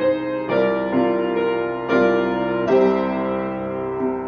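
Slow piano music: sustained chords struck every second or so, each ringing on and fading.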